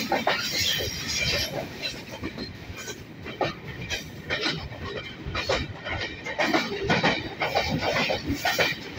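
Freight train running, heard from on board beside a wagon: steady rolling noise with many irregular knocks and clanks from the wheels and wagons.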